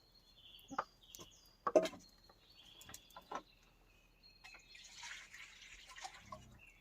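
Small birds chirping in a wet forest, short high calls scattered throughout, with a few sharp clicks or knocks and a brief hiss about five seconds in.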